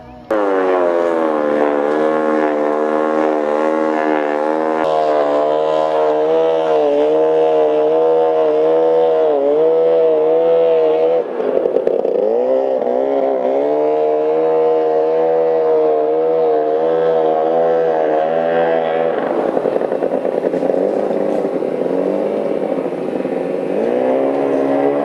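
Antique outboard motor running at speed, a loud steady engine note whose pitch wavers, dipping and recovering about eleven seconds in and shifting again near nineteen seconds.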